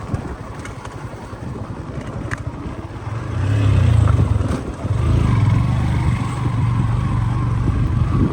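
Motorcycle engine pulling in a low gear, second, on a rough road; its low rumble grows louder about three seconds in, eases briefly near five seconds, then pulls steadily again.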